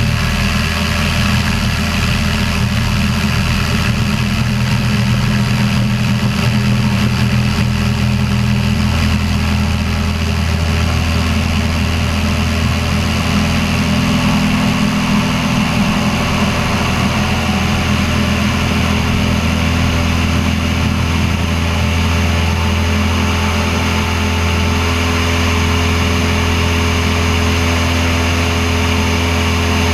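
Cessna 172's piston engine and propeller running at a steady, low-pitched drone, holding constant speed throughout.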